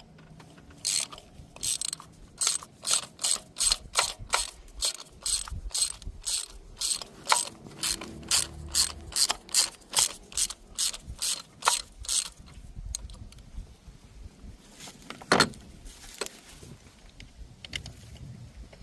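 Hand ratchet clicking in quick repeated back-strokes, driving a socket on a long extension to unscrew a spark plug. The steady clicking stops about two-thirds of the way through, followed by a few scattered clicks and one louder knock.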